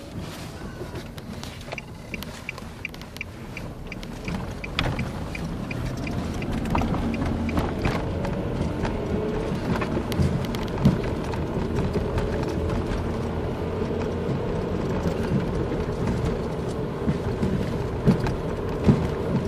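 Car engine and road noise heard from inside the cabin as the car accelerates, growing louder over the first several seconds and then holding steady. A short run of light, even ticks comes in the first few seconds. The crackling 'spark-like' noise the driver is hunting for is not made out here; in this gear he says nothing can be heard.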